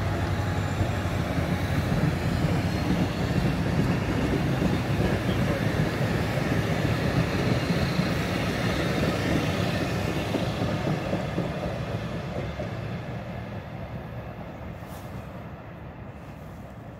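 MARC commuter train rolling along the track: a steady rumble that fades away over the last several seconds as the train moves off.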